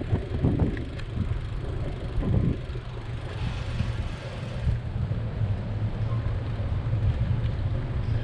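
Wind buffeting the microphone of a riding bicycle's camera in gusts, over a steady low rumble of passing vehicle traffic that settles into an even hum about halfway through.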